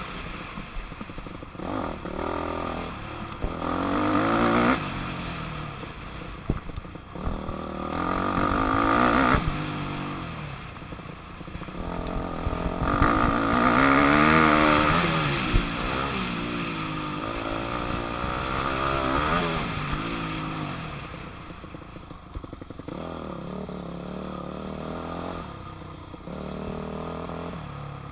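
2006 Yamaha YZ250F four-stroke single-cylinder motocross engine under load, revving up and backing off several times as the bike is ridden, with the loudest revs at about 4, 9 and 14 seconds.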